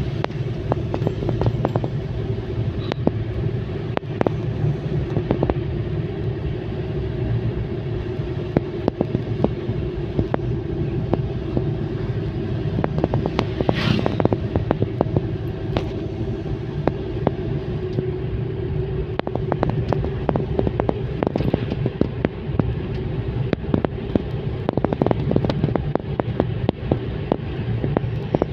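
A car being driven along a road: a steady rumble of engine and tyres, with frequent small knocks and rattles from the road surface. A brief sharp noise comes about halfway through.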